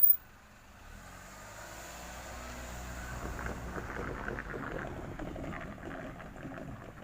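Train running over the level crossing: a rumble builds, then a rapid clatter of wheels over the rail joints and crossing, easing off near the end.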